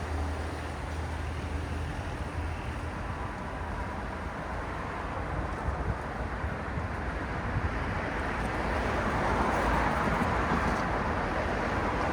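Road traffic noise: a steady wash of car engines and tyres on the road, with a low engine hum early on. A vehicle passes close about two-thirds of the way through, and the noise swells.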